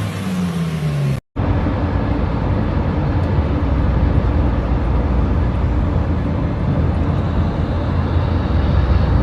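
Lamborghini Huracán Evo engine with its pitch falling as it comes off the revs. After an abrupt cut, a steady low drone of the car running at speed follows.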